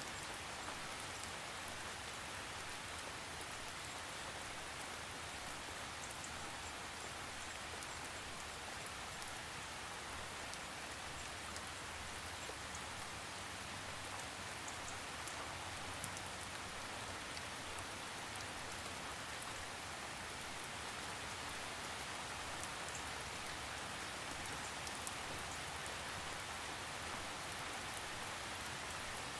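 Steady rain falling, an even hiss with scattered light drop ticks and no thunder.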